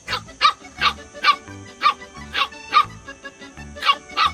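A dog barking repeatedly, about two sharp barks a second with a brief pause just after the middle, over background music.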